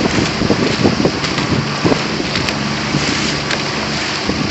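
Wind buffeting the microphone out on the water, a steady rushing noise with a faint low hum beneath it.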